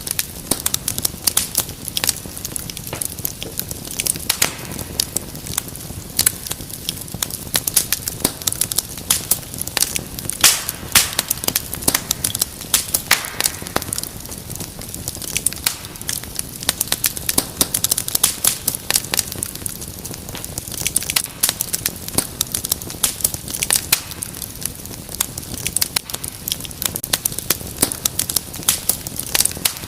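Wood fire burning in a fireplace, crackling and popping in dense, irregular snaps over a soft steady rumble.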